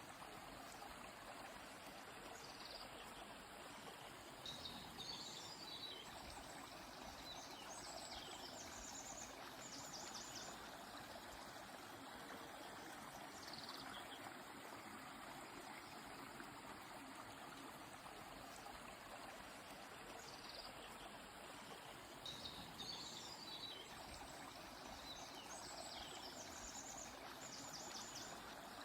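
Stream water flowing steadily, with a songbird singing two bursts of high phrases that each end in a quick trill.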